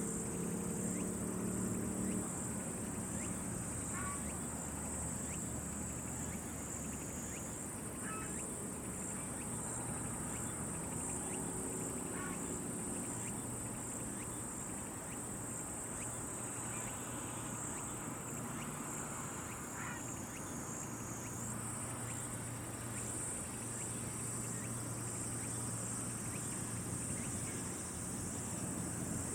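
Outdoor nature ambience dominated by a steady high-pitched insect chorus that shifts slightly in pitch twice. A few faint short chirps come through, over a low steady hum, with a brief low-pitched sound in the first couple of seconds.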